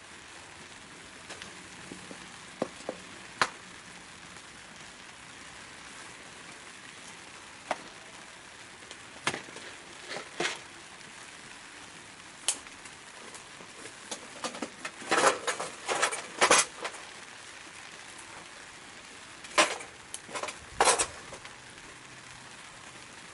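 Wood fire burning in a secondary-combustion wood stove: a steady hiss with scattered crackles and pops. Two bouts of louder clattering come in the second half, one about fifteen seconds in and another about twenty seconds in.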